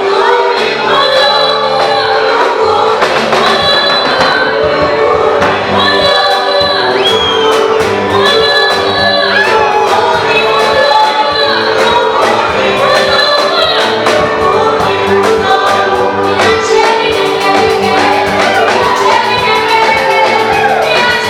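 A choir singing a gospel song in harmony over a live band with bass and drums, in phrases of held notes about two seconds long.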